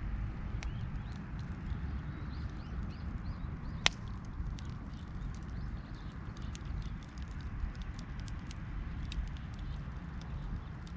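Wood campfire crackling, with scattered small pops and one sharp loud pop about four seconds in, over a steady low rumble.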